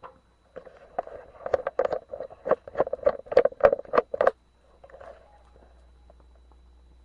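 A quick, irregular run of about a dozen sharp knocks and clatters from the parts of a crushed dishwasher motor, with a softer scrape about a second after they stop.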